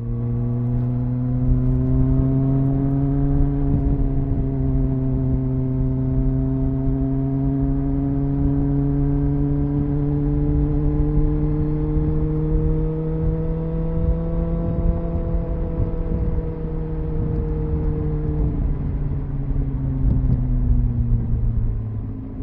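Triumph Speed Four's inline-four engine on its stock exhaust, heard onboard while riding at a steady speed. The engine note rises slowly for the first fifteen seconds or so, then falls away near the end, over a low rumble of wind and road.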